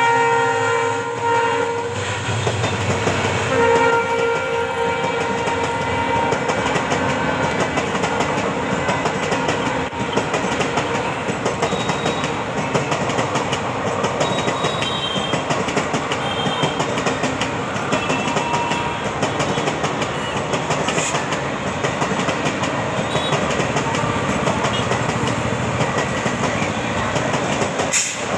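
WDP4D diesel locomotive's horn sounding at the start and once more briefly about three seconds in. After that comes the steady rumble and clickety-clack of the passenger coaches rolling past.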